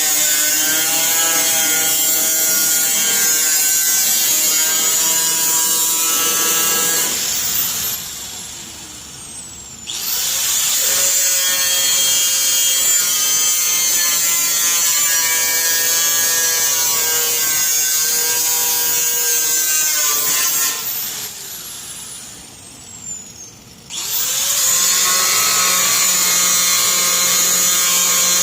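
A power cutting tool, likely a cut-off wheel, cuts through the sheet steel of a car hood, its pitch wavering as it bites. It stops twice, winding down with a falling whine, then starts cutting again.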